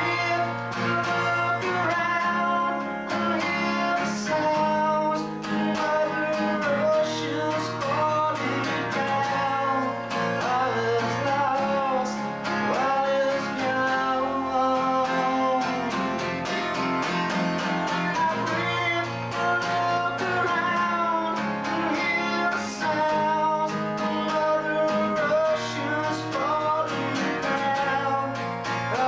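Guitar playing a song in rehearsal, plucked notes in a steady flowing rhythm, recorded through a basic VHS camcorder microphone.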